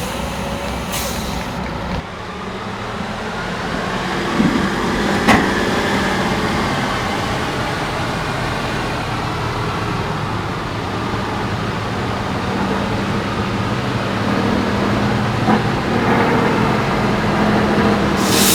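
Heavy off-road truck's diesel engine running steadily under load, with a short air hiss about a second in and a couple of sharp knocks, one around five seconds in and one near fifteen.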